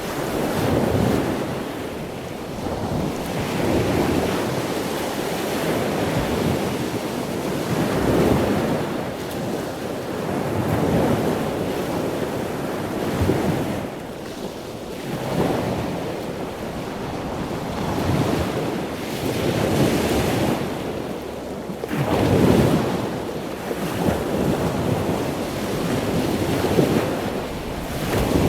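Ocean surf: waves breaking and washing in one after another, the rush swelling and falling back every few seconds, with wind buffeting the microphone.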